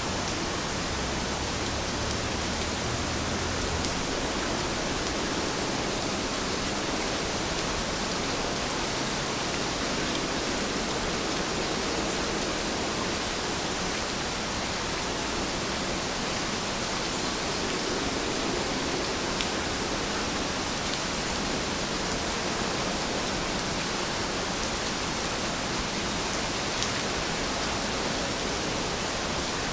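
Steady rainfall, an even hiss with a few faint drop ticks, and a low rumble during the first few seconds.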